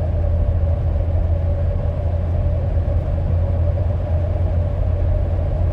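Steady low rumble of a moving car heard from inside the cabin, with a faint constant whine above it.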